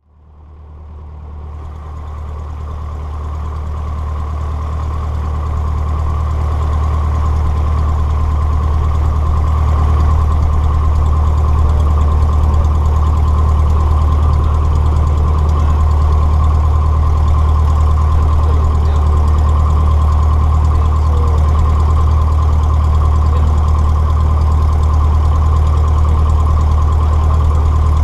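Cessna 150's four-cylinder Continental O-200 piston engine running steadily, heard from inside the cockpit, with a deep steady hum. It fades in from silence over the first several seconds, then holds level.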